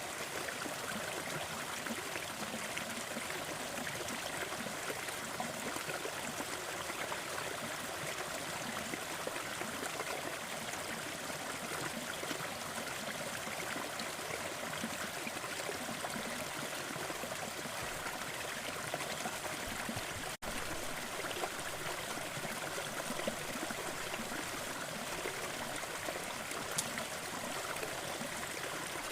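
Small forest waterfall: water falling and splashing in a steady, even rush, with a momentary dropout about two-thirds of the way in.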